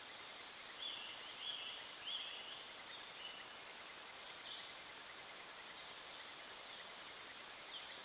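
Steady faint hiss with a few short, high-pitched chirps from a bird: three in quick succession about a second in, then single ones near the middle and near the end.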